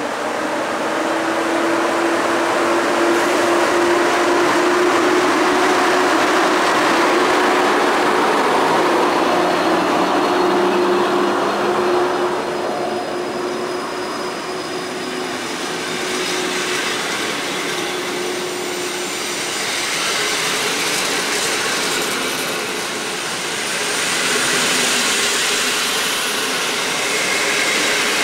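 PKP EP07 electric locomotive pulling an Intercity train away from the station platform, with a hum that slowly rises in pitch over the first twelve seconds or so as it accelerates. The passenger coaches then roll past, gathering speed.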